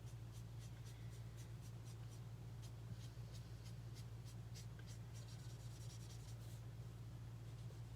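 Marker tip stroking across paper in quick short colouring strokes. A steady low hum runs underneath.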